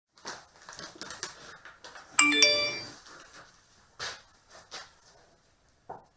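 A two-note ding-dong chime about two seconds in, each note ringing with overtones and fading over about a second. Scattered clicks and knocks come before it and after it.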